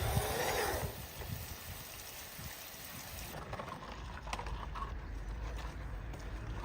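Water pouring for about the first second, then a softer trickle, with a few light clicks and taps in the second half.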